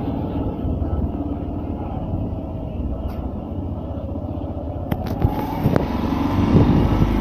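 Motorcycle engine running steadily on the road, with a few knocks and a louder stretch in the last couple of seconds.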